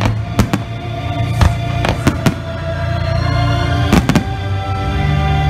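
Aerial fireworks shells bursting in a series of sharp bangs, about eight, irregularly spaced with a quick cluster near the end, over loud show music with long held notes and a heavy bass.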